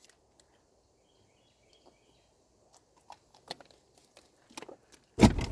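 Quiet outdoor ambience with a few faint, short, high bird chirps, then scattered light taps and a sudden loud rustle near the end.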